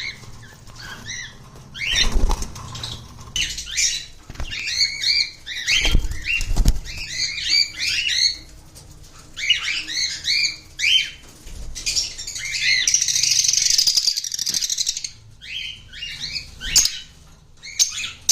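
Cockatiels chirping in short, repeated, rising calls, with wing flapping. There are low thumps about two and six seconds in, and a longer harsh, noisy stretch about thirteen seconds in.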